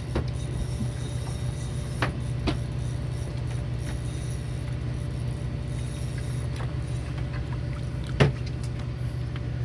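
Fishing boat's engine running steadily, a low even hum. A few sharp clicks or knocks cut through it, two close together about two seconds in and a louder one near the end.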